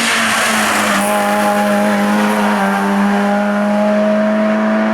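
Hill-climb race car engine at high, steady revs, holding one note with a loud exhaust rasp.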